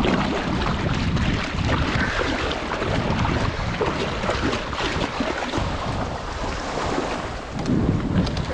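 Sea water sloshing and small waves breaking in the shallows, with wind buffeting the microphone.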